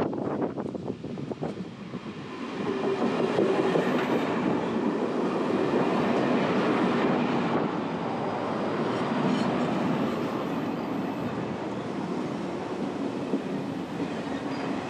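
Passenger train passing close by: the rumble and clatter of its wheels on the rails builds up about two seconds in and stays loud throughout. Wind gusts buffet the microphone before it arrives.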